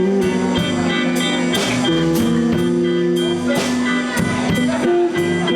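Live blues band playing an instrumental passage between sung lines: guitar with held notes over bass and a drum kit keeping a steady beat.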